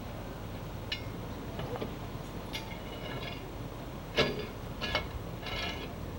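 Scattered metallic clinks and knocks, about five separate strikes, each with a short bright ring. The loudest comes about four seconds in.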